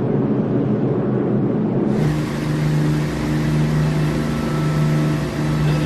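Steady engine drone with a constant low hum; the sound changes abruptly about two seconds in and runs on as a fuller, even drone.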